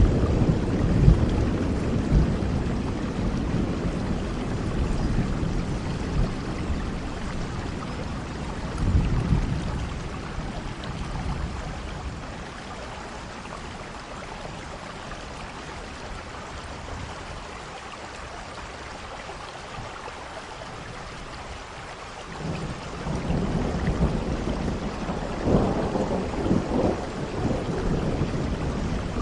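Steady rain with low rolling thunder. A rumble dies away over the first few seconds, a short one comes about nine seconds in, and a longer one builds from about twenty-two seconds in.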